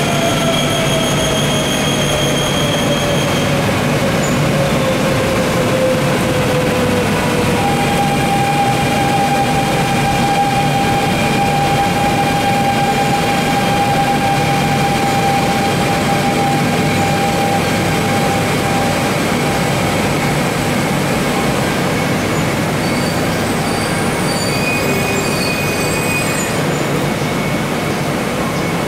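E1 series 'Max' double-decker Shinkansen train running along the station tracks and moving away, over a steady rumble. A high whine falls in pitch over the first several seconds, then holds steady for about ten seconds.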